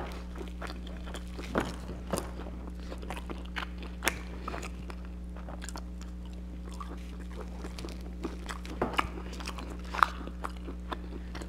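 A person biting and chewing crisp pizza crust, with irregular short crunches and wet chewing sounds. A steady low hum runs underneath.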